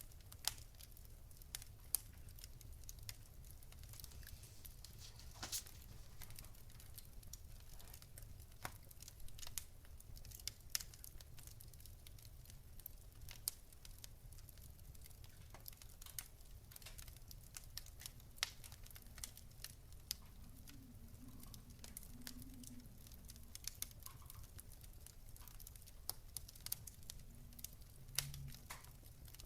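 Wood fire crackling softly, with scattered irregular pops and snaps over a low steady rumble.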